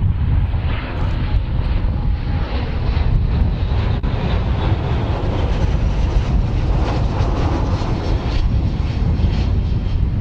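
Aeroplane engine noise: a loud, steady rumble of a fixed-wing aircraft in flight.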